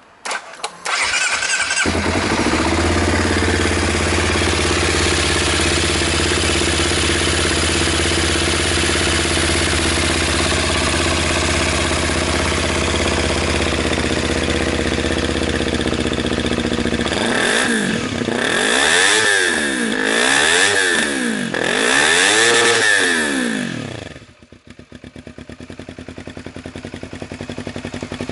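Honda CBR250RR (MC51) parallel-twin engine breathing through a Yamamoto Racing SpecA full exhaust: it is cranked on the starter, catches and settles into a steady fast idle. About two-thirds of the way in it is revved three times in quick succession, each rev rising and falling. It then drops back to a pulsing idle.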